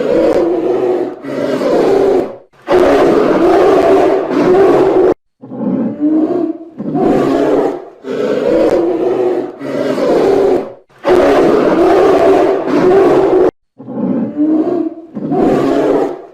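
Grizzly bears roaring and growling: about ten harsh roars in quick succession, the longest about two and a half seconds, with brief breaks between them.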